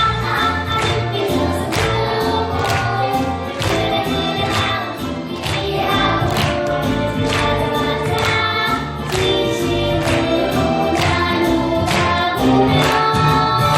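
A group of young children singing together as a choir over musical accompaniment with a steady beat.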